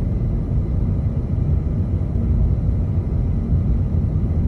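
Car driving on an unplowed, snow-covered road, heard from inside the cabin: a steady low rumble of tyres and engine.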